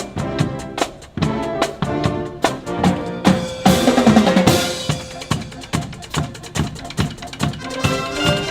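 Band music: sustained wind and brass chords over a steady beat of snare and bass drum hits, with a denser swell of sound about four seconds in.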